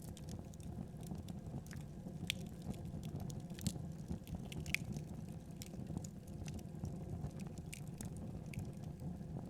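Wood fire burning in a fireplace, crackling: irregular sharp pops and snaps over a steady low rumble, with a few louder pops in the first half.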